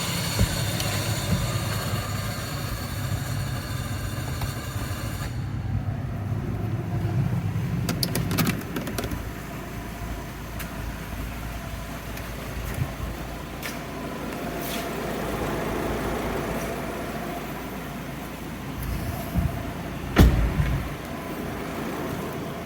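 Ventilation blower fan running with an abnormal whine of several steady tones over a low hum. The whine cuts off about five seconds in and the hum drops a few seconds later, leaving a quieter fan noise with a faint wavering tone and occasional clicks.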